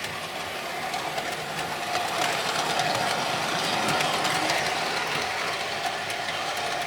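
Model train running down a helix track: a steady whirr of the motor and wheels on the rails, with faint ticks. It grows a little louder toward the middle as the train passes closer, then eases.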